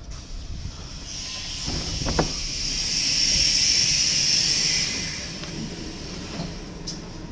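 A four-second blast of compressed-air hiss from a DDM-1 double-decker train's pneumatics, swelling and then fading, with a short knock about two seconds in.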